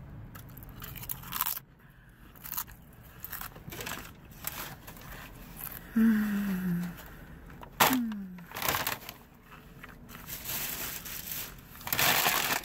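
Tortilla chip with guacamole being chewed, with irregular crunches throughout. Two short falling hums with the mouth closed come about six and eight seconds in. A louder rustling noise comes near the end.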